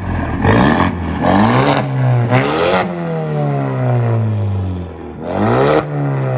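2019 Ford Ranger's turbocharged 2.3-litre EcoBoost four-cylinder free-revving through an SPD stainless catted downpipe and Borla cat-back exhaust. There are four quick throttle blips, the third held longest, and after each one the pitch falls slowly back toward idle.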